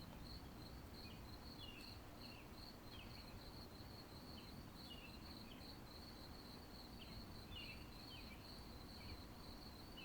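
Faint insect chirping: a steady high pulsing, about three pulses a second, with short scattered chirps over a low background hiss.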